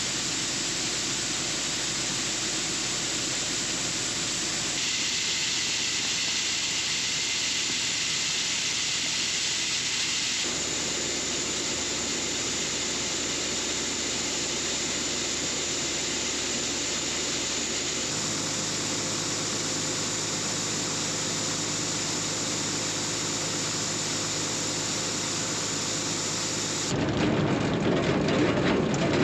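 Farm harvest machinery running with a steady, even noise and a faint hum of engine tones, changing abruptly several times from one clip to the next.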